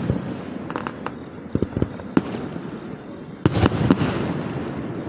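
Aerial fireworks going off: a string of sharp bangs with rumbling echo between them, and the loudest cluster of booms about three and a half seconds in.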